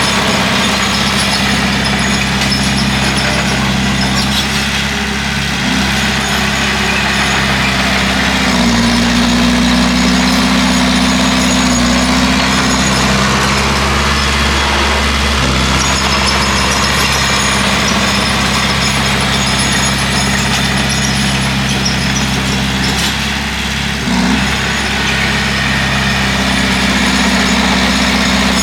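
Bulldozer's diesel engine running steadily under load as it pushes earth. The engine note rises about a third of the way in and holds for several seconds, then settles back, with a brief dip near the end.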